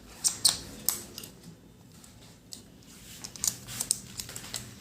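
Scattered sharp clicks and knocks of the craniotomy drill's perforator attachment and handpiece being handled, a few near the start and a quicker run of them near the end.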